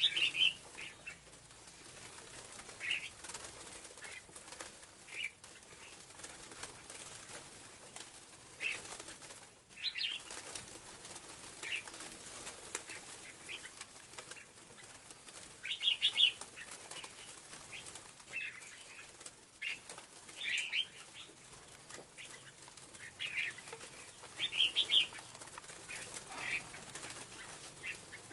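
Scarlet-backed flowerpecker calling: short, high, sharp chips, singly or in quick pairs, every second or two over a faint hiss.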